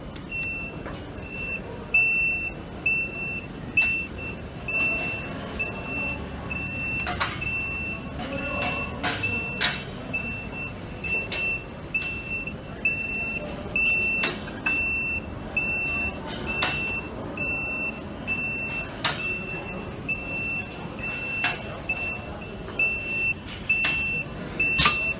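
An EPDM gasket-inserting machine for aluminium profiles runs in a workshop, with a short high electronic beep repeating about one and a half times a second. Sharp clicks and knocks come at irregular moments over a steady mechanical noise.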